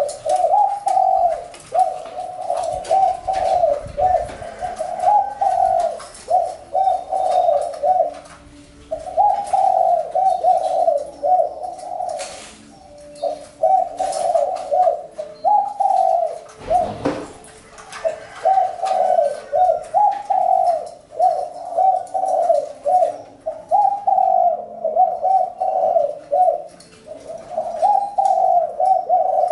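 Spotted dove cooing in repeated phrases, one after another, with a few short pauses. A single dull knock sounds about two-thirds of the way through.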